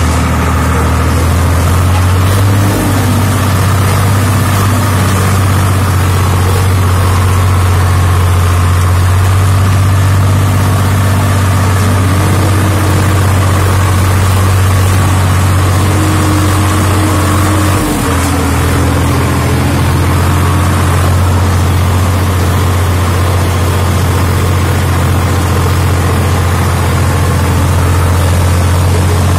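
Tractor engine running steadily with a strong low hum and small rises and falls in pitch, briefly dipping about eighteen seconds in.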